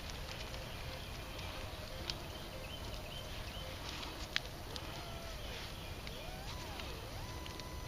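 Metal detector sweeping over a dug hole: faint signal tones that glide up and down in pitch begin about halfway through, over scattered light clicks and handling noise.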